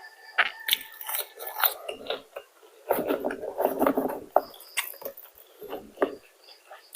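A person biting and chewing crispy fried chicken, with irregular crunches and a denser run of crunching about halfway through.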